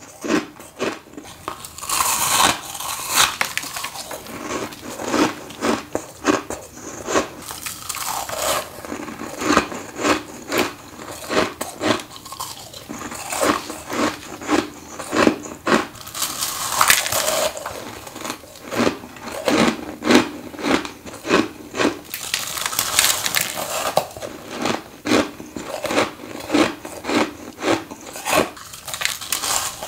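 Close-up biting and chewing of freezer frost ice: a dense run of crisp crunches several times a second, with louder bites every few seconds.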